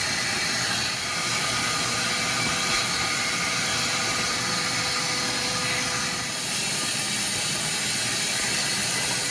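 A steady, even hissing noise with a faint steady hum in it, unchanging throughout.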